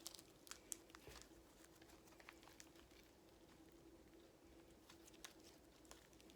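Faint, scattered sticky clicks and small squelches of slime being worked by hand with foaming hand soap mixed in, over a faint steady hum.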